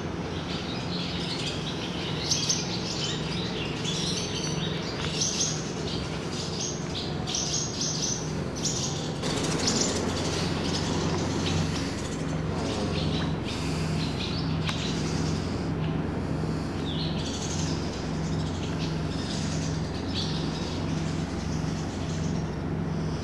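Birds chirping: quick, high, short chirps repeated over and over, with a steady low hum underneath.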